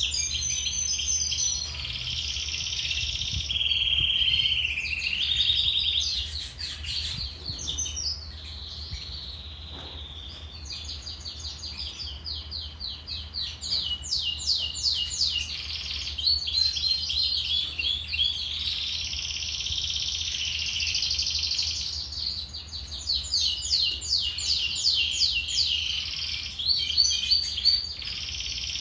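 Domestic canary singing a long unbroken song: fast trills of rapidly repeated notes alternating with sustained rolling phrases, high-pitched, over a steady low hum.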